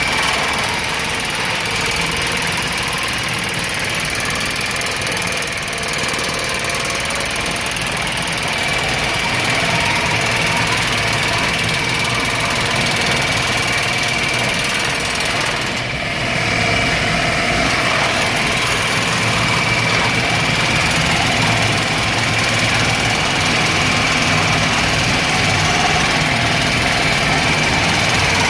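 Laser-table slat grinder running, its grinder teeth working the slag off the steel cutting-table slats: a steady, loud mechanical grinding noise with a steady high whine, dipping briefly about halfway through.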